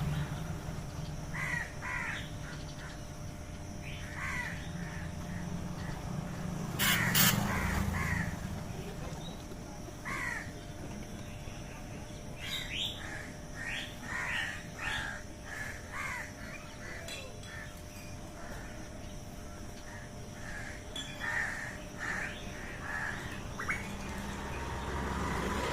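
Birds calling, many short calls repeated at irregular intervals, with a brief loud noise about seven seconds in.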